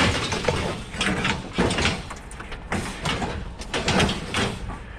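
Irregular knocks, scrapes and clatters, several a second, over a steady low engine rumble.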